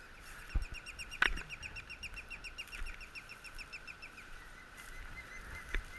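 A small songbird singing a fast trill of evenly repeated high notes, about eight a second, lasting about four seconds. A few sharp knocks sound during it and near the end.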